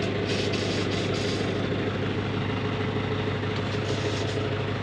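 An engine idling steadily at an even pitch, with a few faint light clicks and rattles in the first second and a half.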